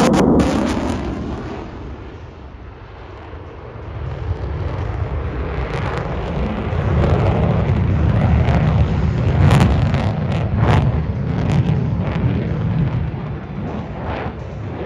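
Lockheed Martin F-35A Lightning II jet engine running at display power: a deep rumble that builds from about four seconds in, with sharp crackling pops through the second half. At the start the pitch of the passing jet falls away.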